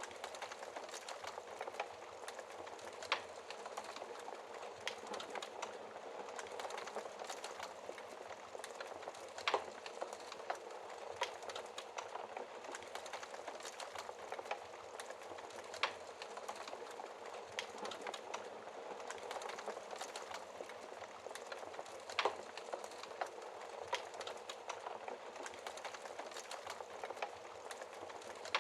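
Wood fire burning in a fireplace: a steady soft hiss of flames with frequent small crackles and a few louder sharp pops from the burning logs.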